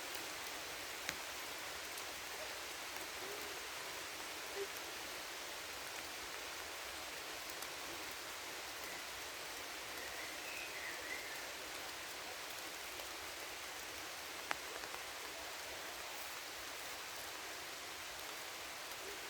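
Steady rain falling on forest foliage, an even patter, with a few sharper single drops, one about a second in and one near the end.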